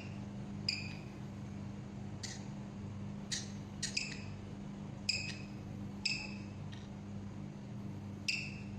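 A small parrot giving short, high chirps, about seven of them at uneven intervals, over a steady low electrical hum.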